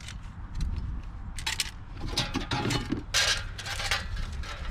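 Metal tools and scrap clinking, rattling and scraping as they are rummaged through and handled, in several short bursts with a few sharp clicks near the start.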